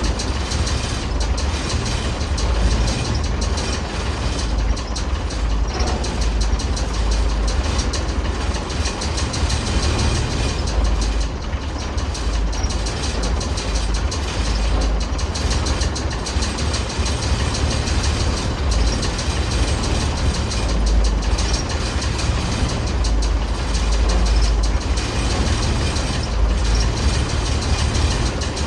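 Ford D series 1314 truck's turbocharged engine running steadily after a jump start, with a fine rapid clatter over a heavy low rumble.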